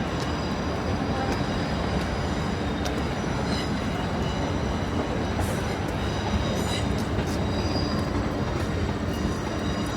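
Electric train standing at a station platform, with a steady hum and rumble of equipment, faint high whines and a few light clicks.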